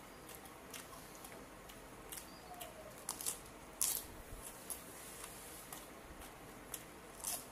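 Close-up eating sounds: crisp lettuce leaves and grilled barbecue being bitten and chewed, with wet mouth clicks and smacks. Sharper crunches come around three to four seconds in and again near the end.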